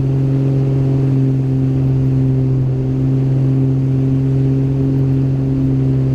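Steady drone of a Beechcraft G58 Baron's twin piston engines and propellers in flight: one even low hum with overtones, unchanging in pitch.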